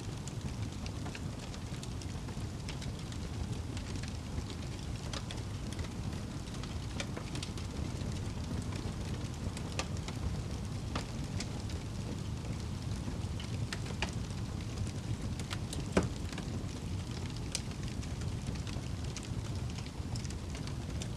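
Wood fire crackling, with scattered sharp pops (the loudest about sixteen seconds in), over a steady low rumble.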